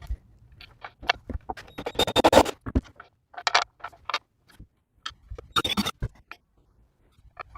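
Irregular scraping and knocking from hand work, in short clusters with quiet gaps between them.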